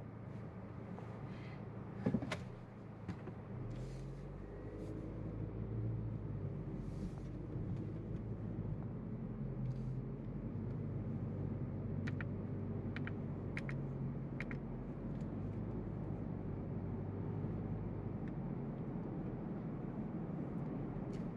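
Cabin sound of a Honda Civic's 1.5-litre turbocharged four-cylinder engine with CVT pulling away from walking pace to about 25 mph: a low, fairly steady engine drone over tyre and road noise. A single knock sounds about two seconds in, and a few light clicks come near the middle.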